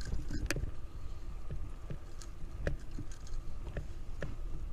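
Low rumble of wind and road noise on an action camera's microphone while riding a fixed-gear bike, broken by several sharp clicks and knocks.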